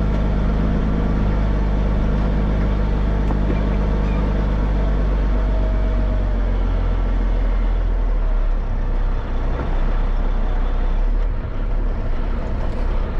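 Dump truck engine running, heard from inside the cab with road noise. Its steady drone turns rougher and more uneven about eight seconds in.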